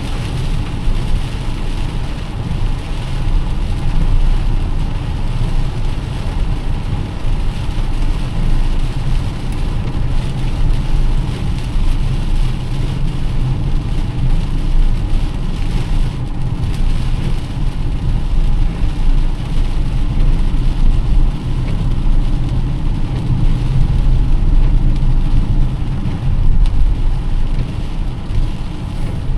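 Car driving in heavy rain: a steady low engine and road rumble under the even hiss of rain falling on the car.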